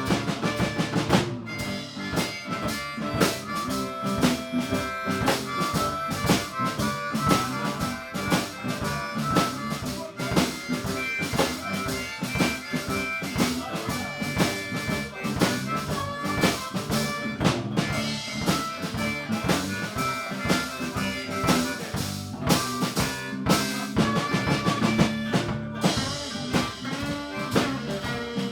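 Live blues band playing an instrumental passage: a drum kit keeping a steady beat under a sustained lead melody line.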